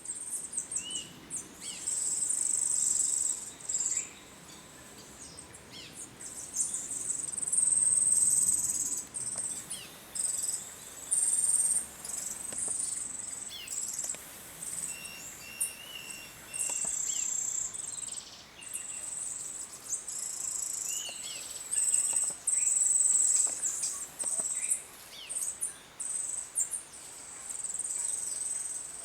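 Small wild birds chirping and calling, with short sliding notes and one held whistle partway through, among high, thin buzzing trills that come and go in bouts of one to three seconds.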